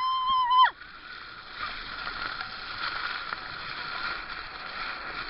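A person's short high-pitched scream at the start, rising sharply, held for under a second and then dropping away, followed by steady background noise with water sloshing.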